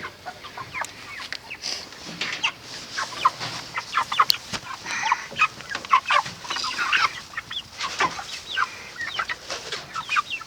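A flock of Cornish Cross meat chickens clucking and chirping, with many short calls overlapping.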